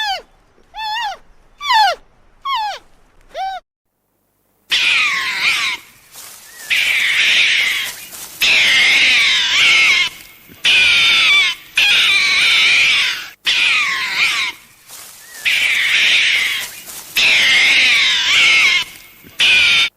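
Animal calls: short meows falling in pitch, about one a second, then after a brief silence a different animal's long, loud, harsh calls, each lasting a second or two, repeated with short gaps.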